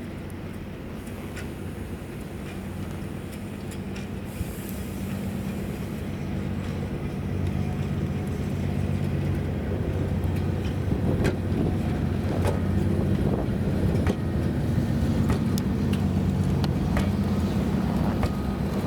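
EP1M electric locomotive moving slowly. Its steady electric hum grows louder, and sharp clicks come in from about halfway.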